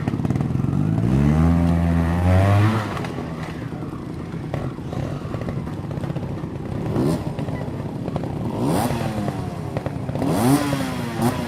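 Trial motorcycle engine revving: a long rise in pitch about a second in, then several short throttle blips near the end.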